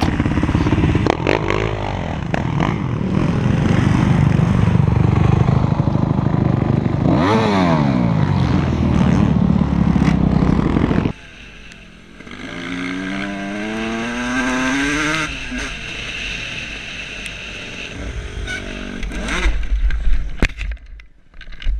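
Dirt bike engines: one runs loud and revs, its pitch dipping and climbing again about a third of the way in, until the sound cuts off abruptly about halfway. Then a bike accelerates with rising pitch, and a few knocks and clatter come near the end.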